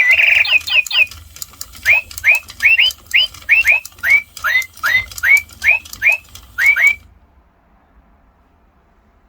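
Electronic toy parakeet chirping: a burst of rapid whistled notes, then a run of short chirps that sweep upward in pitch, about three a second, with clicking among them. The chirps stop about seven seconds in.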